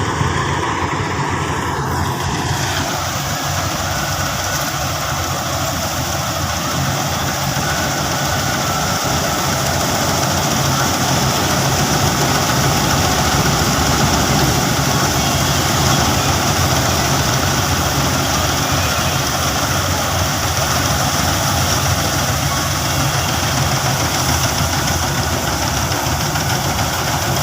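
Diesel engine of a John Deere 5310 tractor running steadily, a continuous loud, even drone.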